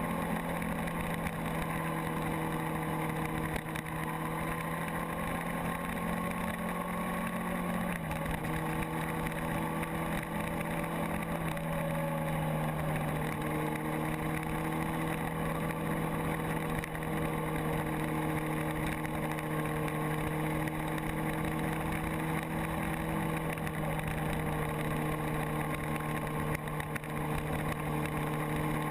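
Motorcycle engine running at a steady cruise with wind rushing over the microphone. The engine note drops a step about eight seconds in and shifts again around twelve seconds in.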